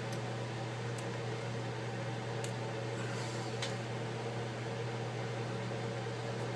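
Steady low mechanical hum with a few faint light ticks.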